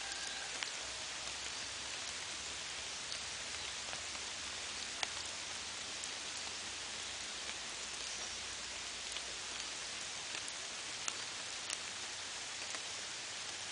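Steady rain falling, with individual drops striking close by as scattered sharp taps, the loudest about five seconds in.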